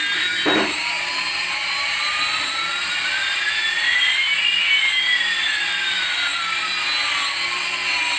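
Steady helicopter-like whirring with an even rotor chop, over which one whine climbs while another falls across the whole stretch.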